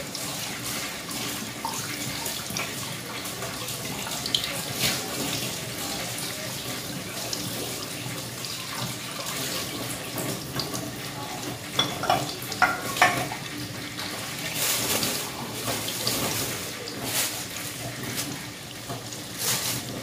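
Breaded chicken cordon bleu shallow-frying in oil on low heat: a steady sizzle with continuous small crackles, and a few louder, sharper sounds about twelve seconds in.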